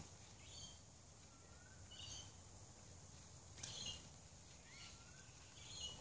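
Faint bird chirps, short calls every second or two with a couple of brief gliding whistles, over a quiet outdoor background.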